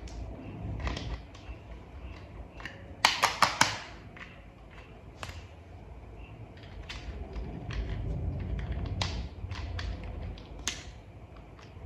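Small toy vehicle parts being handled and fitted together: scattered light clicks and taps, with a quick run of four sharp clicks about three seconds in, the loudest sound.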